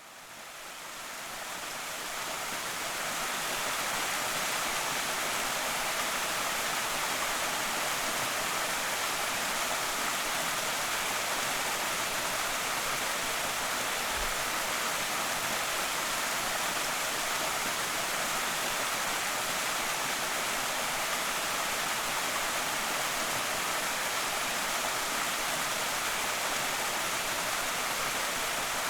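Waterfall on Slateford Creek: a steady, even rush of falling water, fading in over the first few seconds.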